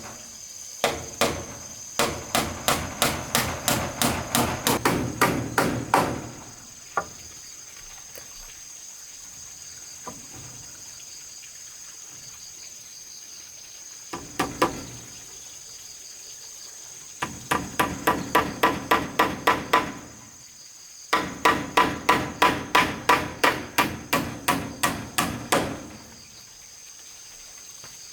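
Hammer driving nails into wood in three runs of quick blows, about four a second, with a single knock or two between runs. Insects trill steadily underneath.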